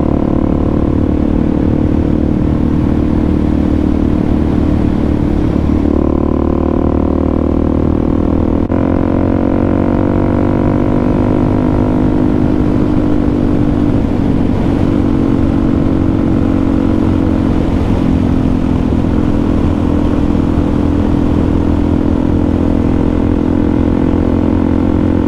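Suzuki DR-Z400SM's single-cylinder four-stroke engine running steadily at cruising speed, its pitch shifting slightly about six and nine seconds in, over a constant low rush of wind noise.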